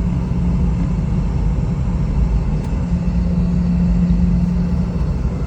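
Steady cabin rumble inside a Boeing 717-200 as it taxis after landing, with a constant low hum from its rear-mounted Rolls-Royce BR715 turbofans at idle.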